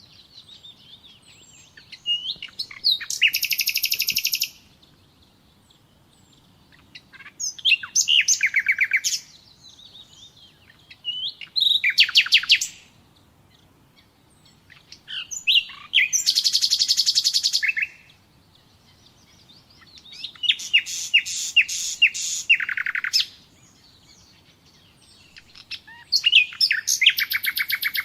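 Nightingale singing: six loud phrases of rapid repeated notes and trills, each a second or two long, with pauses of about two seconds between them.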